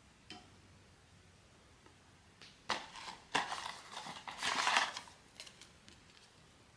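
Blind-box packaging being handled and opened by hand: a light tick, then a couple of seconds of crinkling and rustling with sharp clicks, then a few light taps near the end.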